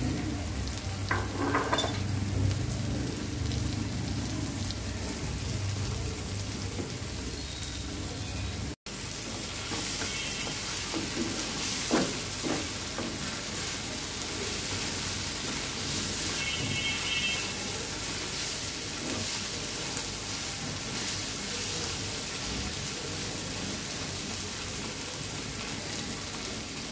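Sliced onions, sweet corn and green chillies sizzling steadily in a black iron wok as a metal spatula stirs and scrapes through them, the onions' water just cooked off. A few short scrapes and knocks of the spatula on the pan, the sharpest about halfway through.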